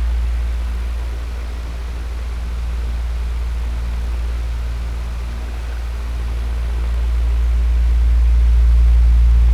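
Electric fan running steadily: a low motor hum under an even rush of air, slowly swelling and easing in loudness.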